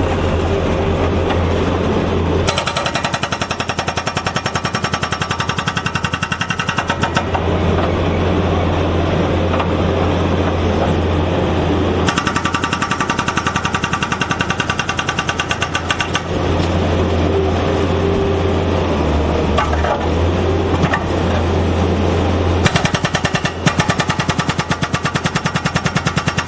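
Hydraulic breaker hammer on a skid steer loader pounding pavement in rapid, fast-repeating blows, in three bursts of several seconds each. Between the bursts the loader's engine runs steadily.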